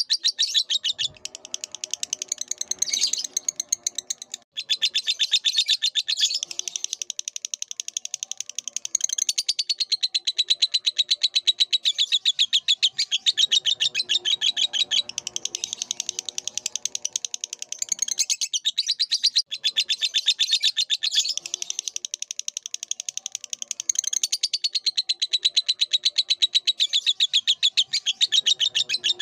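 Lovebird singing a long, very rapid chattering trill of high chirps, with short falling notes woven in. The trill breaks off briefly twice and then resumes.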